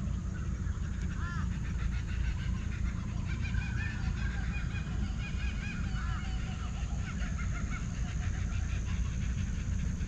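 Several forest birds calling: repeated short arched chirps and a rapid chatter, over a steady low rumble and a thin steady high tone.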